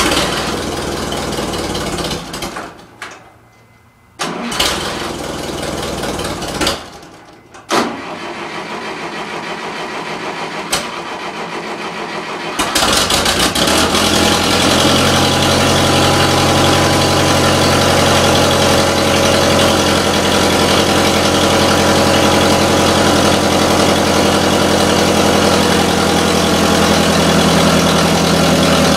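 International Harvester 504 tractor's four-cylinder gasoline engine cranked by the starter in three bursts with short pauses, then catching about thirteen seconds in and running steadily. A hard cold start after sitting all winter, which the owner thinks he may have flooded.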